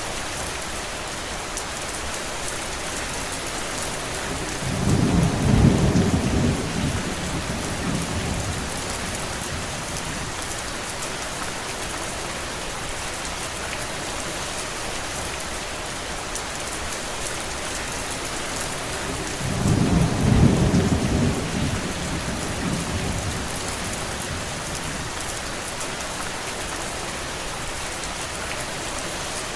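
Steady rain falling, with two brief low rumbles rising out of it, one about five seconds in and one about twenty seconds in.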